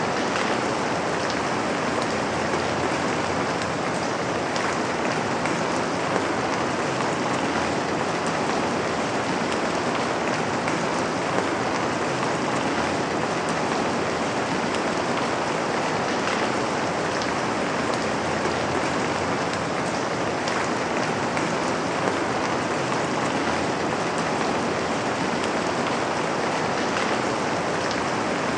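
Steady rain falling on a window pane, an even hiss with scattered individual drop ticks.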